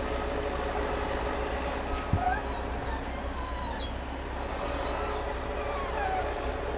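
An animal giving short, high-pitched whining calls in small clusters of gliding notes, over a steady low hum.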